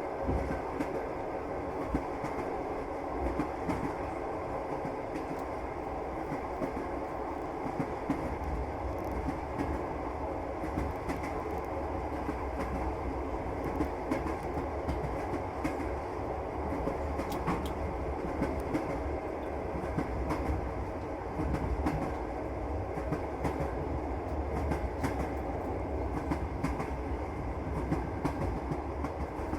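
Passenger train in motion: steady rumble of the carriage with the clickety-clack of the wheels over rail joints, heard from inside the car. The rumble grows heavier about eight seconds in.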